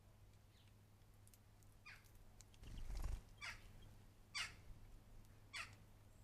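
A bird calling four times, each call a quick downward sweep in pitch, with a brief low rumble about three seconds in over a faint steady hum.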